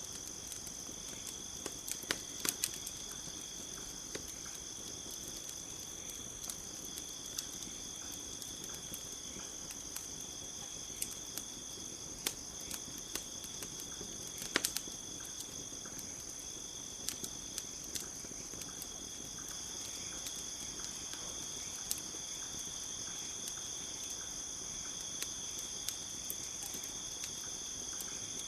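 Campfire crackling in scattered sharp pops over a steady high chirring of crickets.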